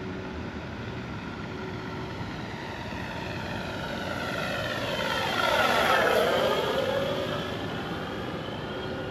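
Electric FlightLine Corsair RC warbird with an onboard engine-sound system flying a pass. Its propeller and simulated engine sound grow louder to a peak about six seconds in as it passes closest, then fade.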